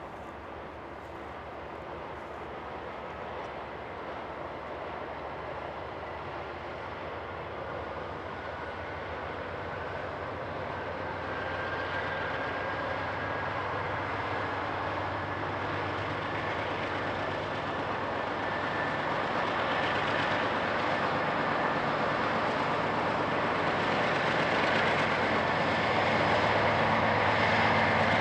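Diesel locomotive approaching and growing steadily louder, its engine running with a thin whine that slowly rises in pitch.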